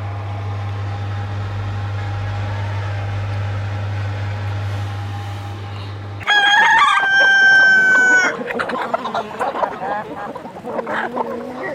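A steady low hum for about six seconds that cuts off suddenly. A rooster then crows once, loud and drawn out, followed by chickens clucking.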